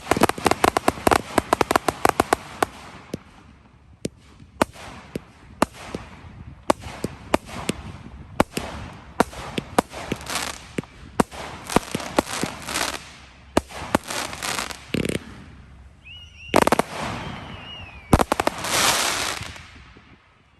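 Fireworks going off: a dense, rapid crackle for the first few seconds, then separate sharp bangs and clusters of cracks, with a longer crackling swell near the end.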